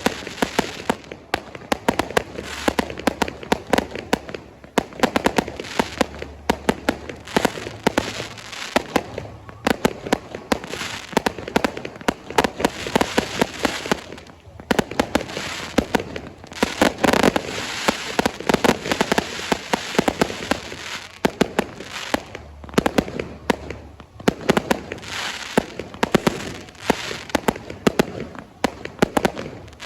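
Fireworks display going off in rapid succession: many sharp bangs and crackles a second, swelling and easing, loudest about halfway through.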